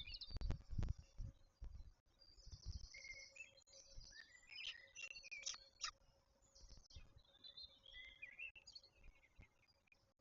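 Birds chirping and calling outdoors: many short chirps, a buzzy note and quick sliding calls, coming and going. A few low thumps come in the first two seconds.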